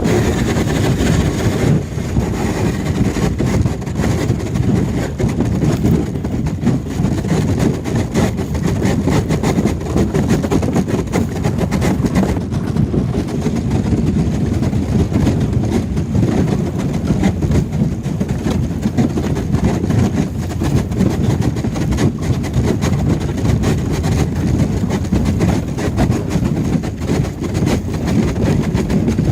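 Fishing boat's engine running steadily as the boat breaks through lake ice, with a dense low rumble and continuous crackling of ice against the hull.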